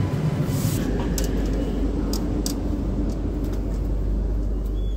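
Steady low rumble and hum inside a train's 2-tier AC sleeper coach, with a few light clicks and rattles.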